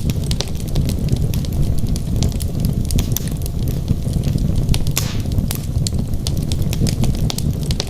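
Wood fire burning in a fireplace: a steady low rumble of flame under irregular sharp crackles and pops from the logs, with a brief cluster of louder pops about five seconds in.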